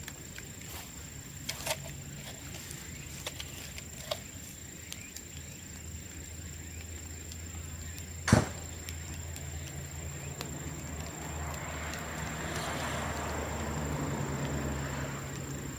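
Bamboo burning in a bonfire: scattered crackles and pops, with one loud sharp bang a little past the middle as a bamboo section bursts, then a hiss that swells toward the end.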